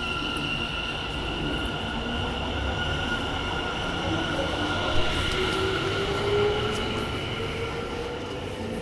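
Electric train running at the platform, with steady high-pitched tones and a motor whine that rises slowly in pitch through the second half as it gathers speed.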